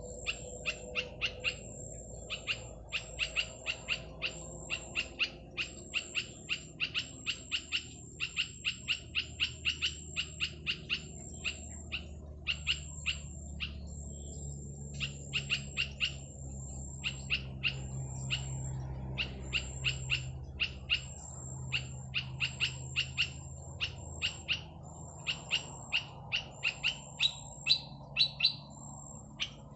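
Bird calling in runs of three to six short, sharp chirps that repeat with hardly a pause, alternating with a thin high note. It is the call used to lure and provoke petpet birds.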